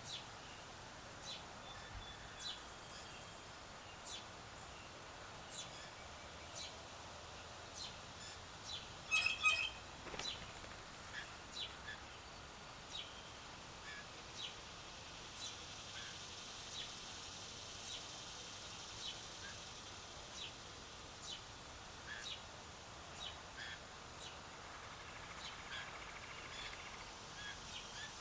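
Scattered short bird chirps over a faint steady outdoor background, with one louder call about nine seconds in.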